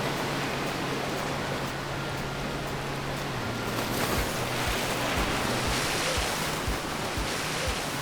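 Ocean surf washing steadily in a wide, even rush, with some wind. Low sustained tones sit under it, and from about halfway soft low thumps keep a steady beat.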